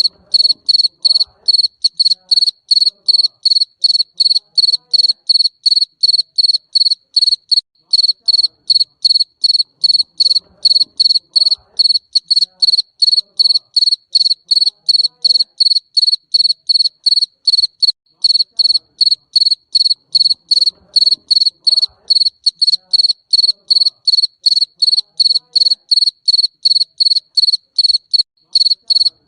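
Garden cricket chirping: a steady, even train of short high-pitched chirps, about three a second, with no break.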